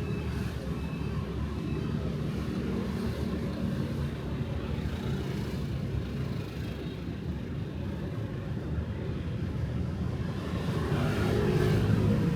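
Night street traffic: a steady engine rumble from motorbikes and cars passing, getting louder about ten seconds in as a vehicle comes close.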